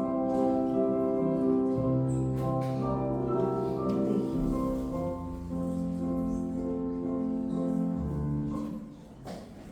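Ballet-class piano music with steady, held chords and a melody. It stops about a second before the end.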